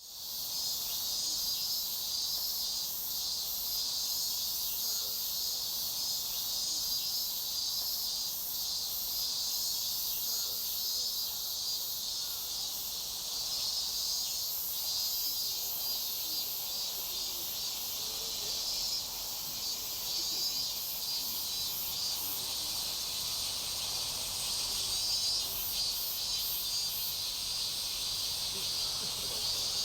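Steady, high-pitched chorus of summer insects, a continuous shrill chirring with a fine, fast pulsing in its highest part.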